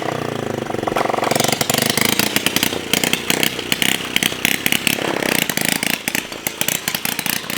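Small motorcycle engine running, its pitch and level shifting up and down.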